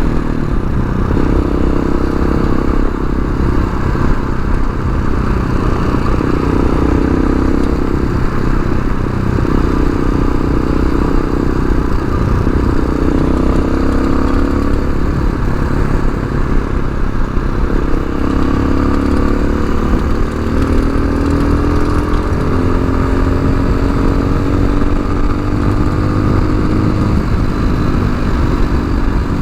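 TaoTao TBR7 dual-sport motorcycle's single-cylinder engine running under way, its pitch climbing slowly and then dropping back several times through the gears. A steady rumble and wind noise run underneath.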